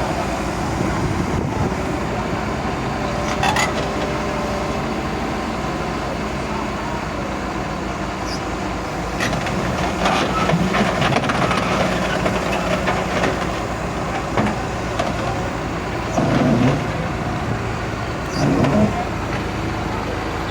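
Excavator's diesel engine running steadily, with a spell of louder clattering partway through and two short heavy knocks near the end.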